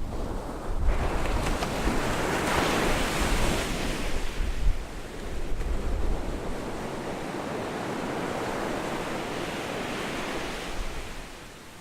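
Ocean surf on a beach: a wave breaks about a second in and washes up, settling into a steady wash that eases near the end. Low gusts of wind buffet the microphone.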